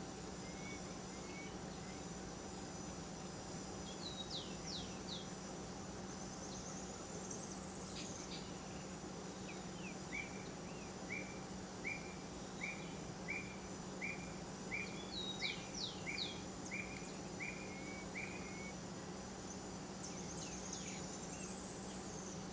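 Forest ambience: a steady high insect buzz with bird calls over it, a few quick high slurred notes twice, short trills, and through the middle a run of about a dozen short, evenly spaced notes.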